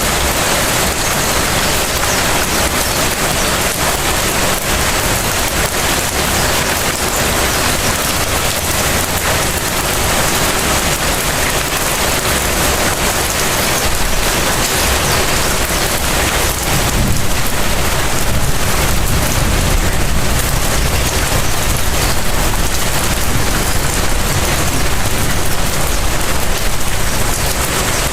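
Light rain falling steadily in front of a house, a dense, even patter across the whole range. A deeper low rumble swells a little in the second half.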